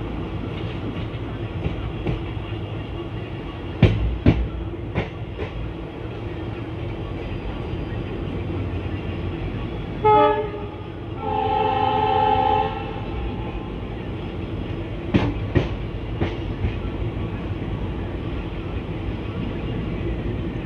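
ICF passenger coach running on the track with a steady rumble, and pairs of sharp wheel clacks over rail joints about four seconds in and again near fifteen seconds. A train horn sounds about ten seconds in, a short blast followed by a longer one.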